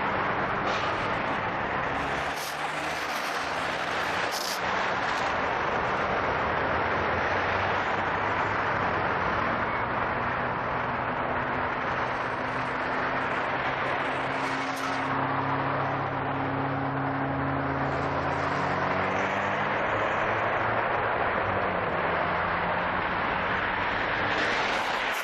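Steady wind and road rush on a head-worn camera's microphone while riding a bicycle, with a motor vehicle's engine droning past about halfway through, dropping in pitch as it goes by.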